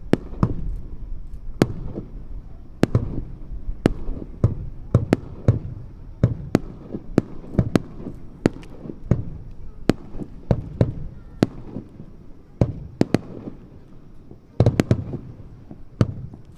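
Aerial fireworks shells bursting in quick, irregular succession, heard from some distance: sharp cracks, several a second, over a low rumble, with a dense burst of cracks near the end.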